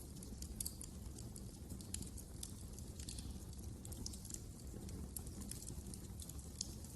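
Wood fire crackling: frequent small irregular pops and snaps over a low steady rumble of burning logs.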